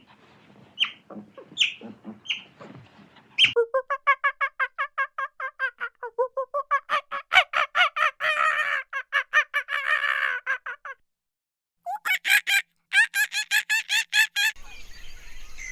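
Chickens clucking and cackling in long runs of rapid, evenly repeated notes, several a second, after a few short scattered calls. The runs stop dead about eleven seconds in, and resume higher-pitched a second later. Near the end they give way to outdoor hiss with faint bird chirps.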